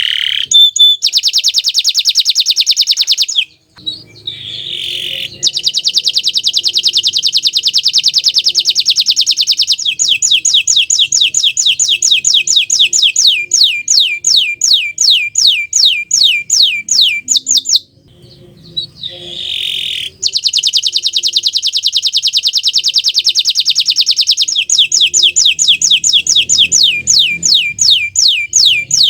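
Domestic canary (bottle-green colour variety) singing: long, very fast trills alternating with runs of quick down-slurred notes, about eight a second. The song breaks off briefly twice, about 4 s and 18 s in.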